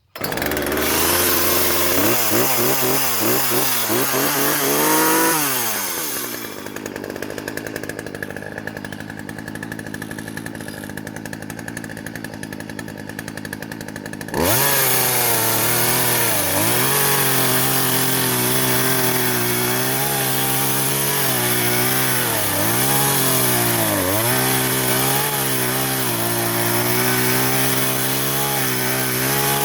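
Chainsaw mounted in a homemade mini Alaskan chainsaw mill, running at high revs with a wavering pitch. It drops to a quieter stretch for several seconds, then comes back loud about halfway through and runs steadily under load as it cuts lumber from the log, the pitch dipping briefly now and then.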